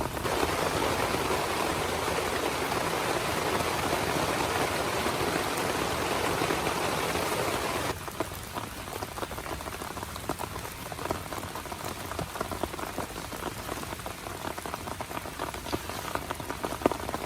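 Heavy rain drumming steadily on a tent; about halfway through it drops suddenly to a lighter patter of separate drops.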